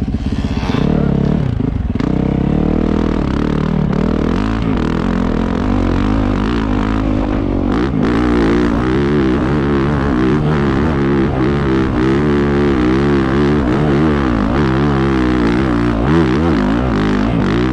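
Off-road motorcycle engine revving hard under load, its pitch rising and falling over and over as the throttle is worked.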